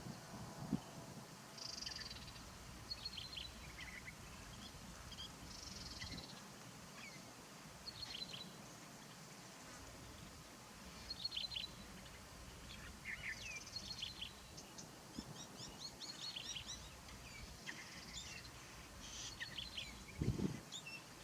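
Faint, scattered chirps and calls of birds in the background, short and varied in pitch. Near the end there are a couple of brief low thumps.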